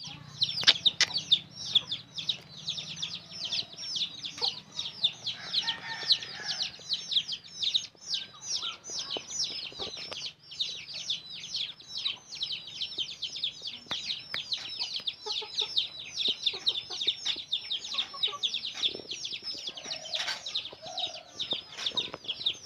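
Parrot calling: a nonstop run of shrill chirps, each a quick downward-sliding note, about four or five a second.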